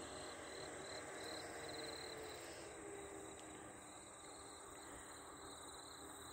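Faint outdoor ambience with insects chirring, a steady high-pitched drone.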